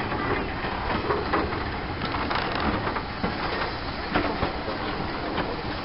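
Railway passenger coaches rolling past, their wheels clattering over the rail joints: irregular clicks and knocks over a steady rumble.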